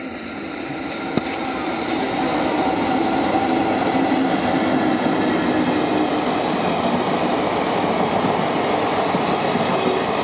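A train passing close by on the main line: its noise builds over the first two seconds and then holds loud and steady, with a sharp click about a second in.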